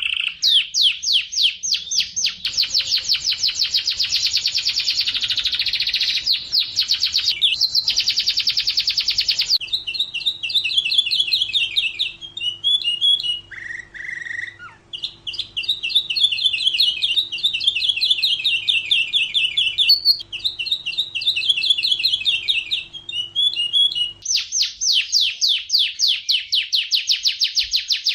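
Domestic canary singing a long, continuous song of trills and rolls. Very fast rolls fill the first ten seconds or so, slower choppy phrases follow through the middle, and fast rolls return near the end.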